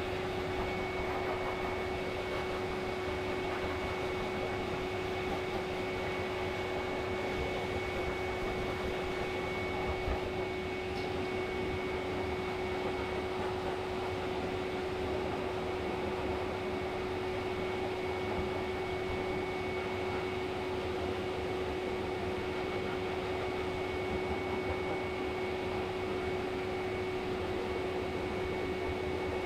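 Pet grooming blow dryer running steadily, a continuous rush of air with a steady hum and a thin high whine.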